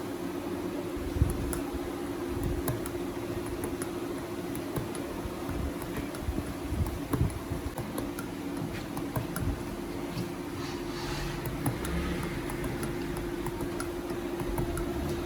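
A steady low hum, with scattered clicks and dull knocks over it.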